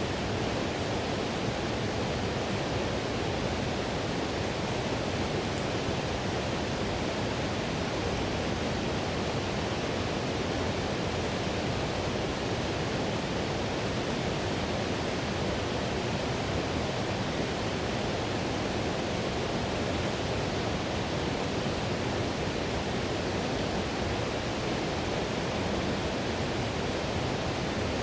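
Whitewater river rapids rushing in a steady, unbroken roar of water.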